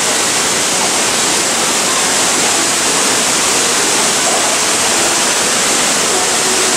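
Indoor lobby waterfall splashing, a loud steady rush of falling water.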